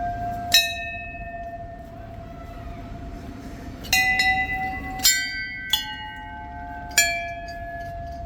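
Hindu temple bells struck five times, on bells of different pitches, each strike ringing on in a long, clear tone that overlaps the next.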